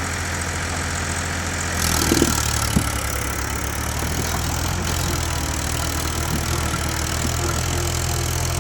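Tractor's diesel engine running steadily at low revs. About two seconds in the noise grows fuller, with a couple of short knocks.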